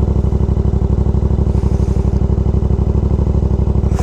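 Motorcycle engine running at a steady speed under way, an even pulsing note that holds the same pitch throughout.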